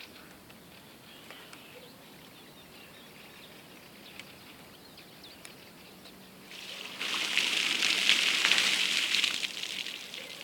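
Water poured over a person in a cold-water dousing, splashing loudly for about three and a half seconds, starting a little past the middle. Faint birdsong before it.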